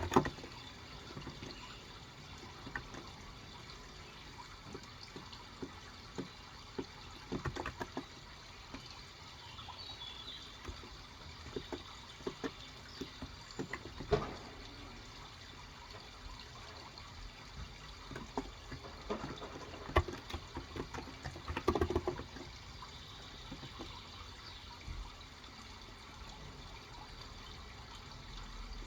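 Steady trickling water, with scattered soft keystrokes from an electrostatic-capacitive (Topre-style) keyboard coming in a few short clusters. A faint bird chirp comes near the middle.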